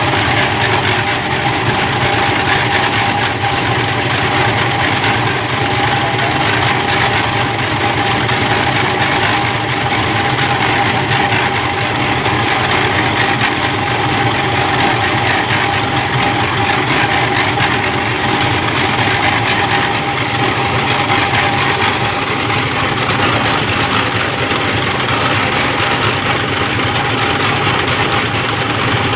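An engine running steadily and loudly without change, with a constant whine above its noise.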